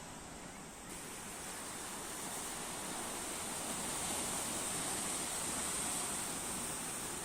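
Sea waves washing ashore, a steady rush of surf that swells slowly to a peak late on and then eases. About a second in, an abrupt change in the sound suggests a cut to another shot.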